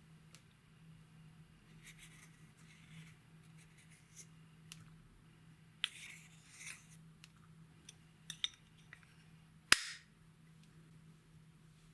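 Slime being pressed and worked by hand, with scattered sticky crackles and small clicks and one sharp pop late on.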